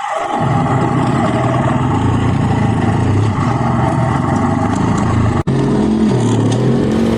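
Dirt bike engine running steadily, with a momentary cut-out about five and a half seconds in.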